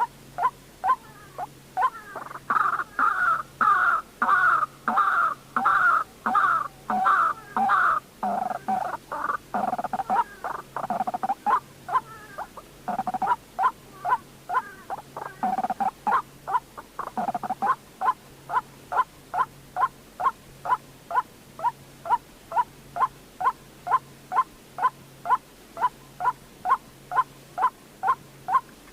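White-breasted waterhen calling: a steady run of short, sharp notes at about two a second. A louder, denser stretch of overlapping calls comes about two to eight seconds in, and a few lower, drawn-out notes fall in the middle. It is a recorded call played as a lure for trapping.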